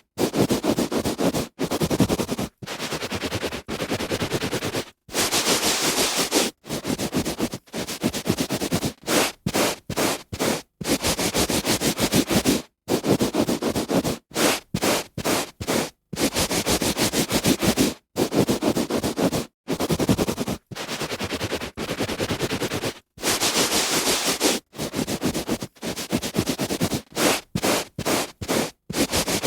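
A hand rubbing on carpet pile: strokes of scratchy friction noise, some about two seconds long and some only a fraction of a second, with short silent breaks between them.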